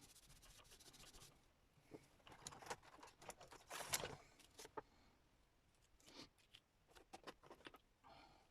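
Faint handling of paper scraps: short scratchy rustles, scrapes and snips, loudest about four seconds in.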